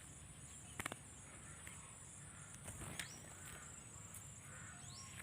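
Faint outdoor ambience: a steady high insect drone, a few short rising bird chirps and scattered light clicks.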